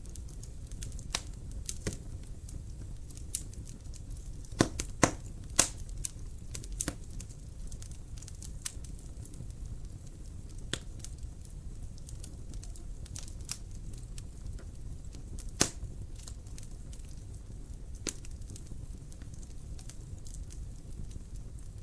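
Wood fire crackling in a fireplace: scattered sharp pops and snaps over a low, steady rumble of the flames, with a cluster of louder pops about five seconds in and another loud one about two-thirds of the way through.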